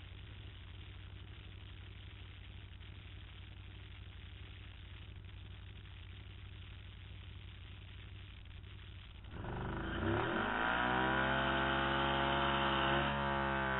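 Can-Am Spyder roadster engine idling steadily at the drag strip start line. About nine seconds in it revs sharply and stays at high revs as the machine launches hard down the strip.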